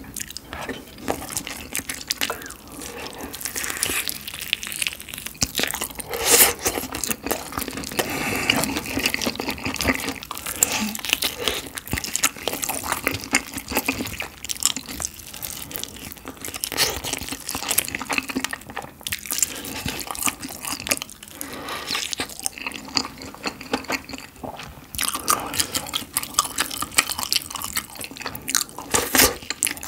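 Close-miked chewing and biting of spicy sauce-glazed fried chicken: wet, sticky mouth sounds and crunching in quick, irregular clicks, as the meat is pulled apart by a gloved hand.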